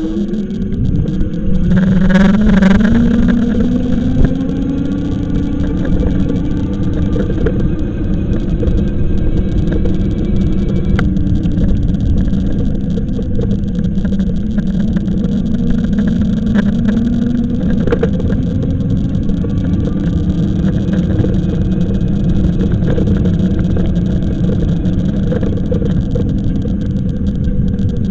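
Riding an e-bike: wind rumble on the microphone with the bike's motor humming underneath. The hum rises in pitch over the first few seconds as the bike speeds up, then holds and wavers with speed.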